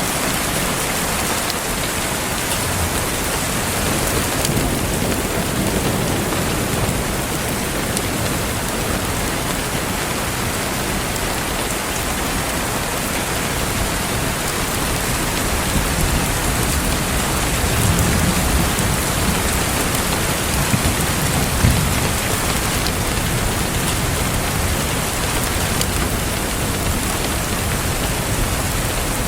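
Steady rain falling on a surface, with fireplace crackle mixed in as faint scattered clicks. A low rumble swells for a few seconds past the middle.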